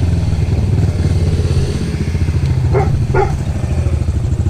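Small off-road vehicle engine running steadily at low speed, with a dog barking twice about three seconds in.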